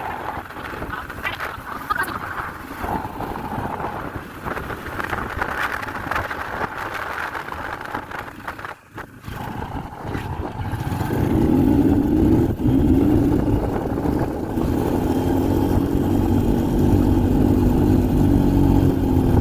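A motor vehicle running. About halfway through, after a brief drop, a louder, steady low engine drone with a held hum takes over.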